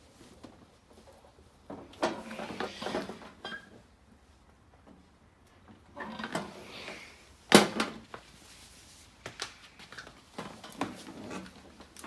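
Welding trolley on casters being pulled out from under a workbench, rolling with knocks and rattles in three bursts. The loudest is a sharp knock about seven and a half seconds in.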